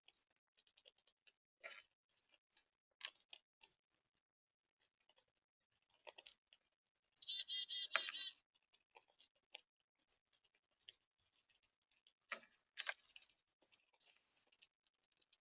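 Small songbirds at a backyard feeder: scattered faint clicks and ticks, a few brief high chirps, and, about seven seconds in, a quick run of about eight repeated high call notes lasting a second.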